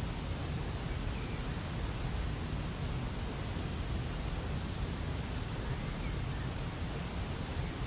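Waterfall's steady rushing water, with faint high chirps of a bird repeating about every half second over it.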